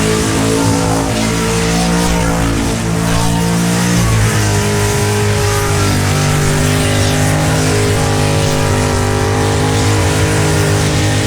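V8 engine held at high revs during a burnout, with tyre noise underneath; the engine note shifts about four seconds in.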